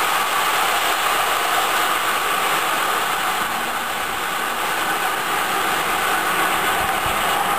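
High-speed electric train running away down the track: a steady rolling noise of wheels on rails.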